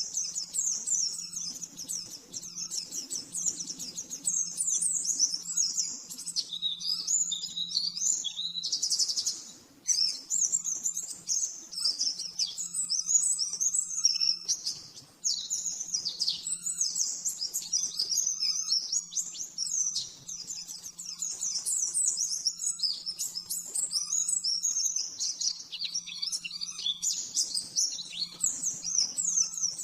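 Pleci (white-eye) singing a fast, continuous twittering song of rapid high chirps, broken by a few short pauses.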